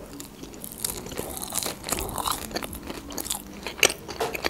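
A mouthful of sushi roll chewed close to the microphone: irregular small crunches and mouth clicks, with a sharper crunch near the end.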